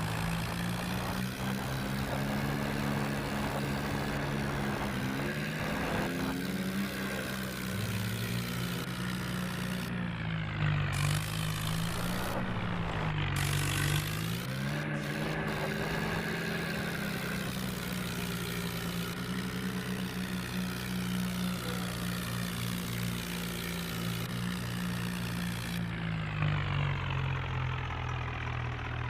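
Tractor engine running steadily, its pitch dipping and rising again a few times as the revs change.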